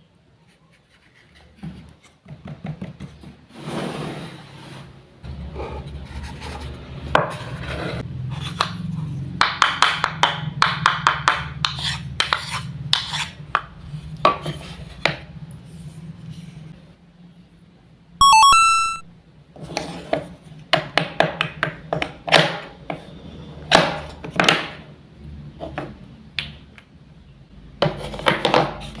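Toy wooden fruits and vegetables being cut with a toy wooden knife: repeated clicks and taps of wood on wood, with short rasping runs as pieces are sawn and pulled apart. There is a brief high chime about 18 seconds in.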